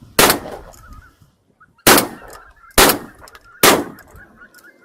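Four shotgun shots fired at geese, the first alone and the last three about a second apart, with geese honking faintly between the shots.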